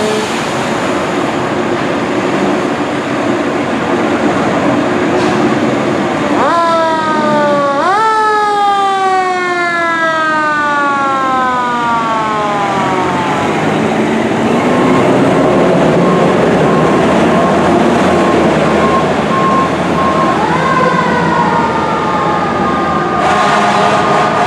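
Fire engine siren on a 2006 KME Severe Service engine running code: it winds up twice in quick succession a few seconds in, then winds slowly down over about five seconds, and winds up again near the end. Steady traffic and engine noise run underneath throughout.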